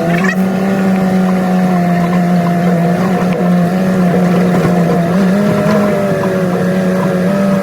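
Old truck's engine running at steady speed, heard from inside the cab; its pitch jumps up as the revs rise right at the start, then holds nearly level with a slight rise about five seconds in.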